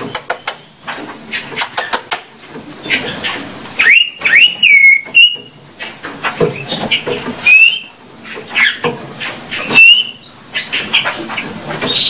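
A tame pet bird chirping and whistling: quick chirps and clicks, broken by several short rising whistle notes.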